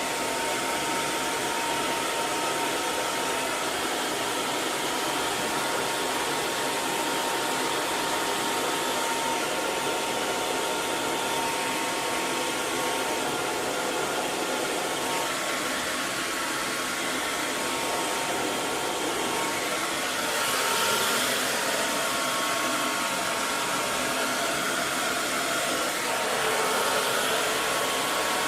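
Electric hair dryer running continuously: a steady rush of blown air with a faint motor whine. The hiss brightens slightly about two-thirds of the way through, and again near the end.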